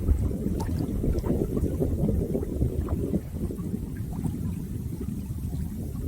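Running water: a steady low rush with small scattered splashes and drips.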